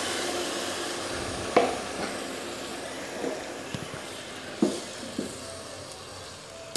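Yogurt-marinated boneless chicken sizzling in hot oil in a pot, the sizzle slowly dying down, with a few knocks and scrapes of a spatula stirring it.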